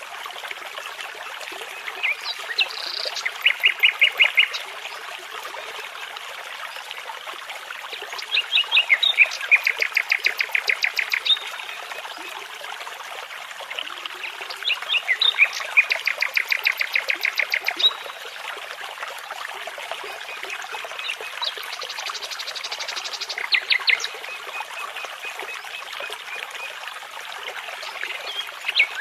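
A nightingale singing in separate phrases of fast repeated notes, four phrases a few seconds apart, over the steady rush of a babbling brook.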